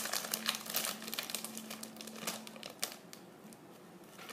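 Crinkly chip bag rustling as it is handled and opened, many small crackles that thin out and get quieter over the last second or so.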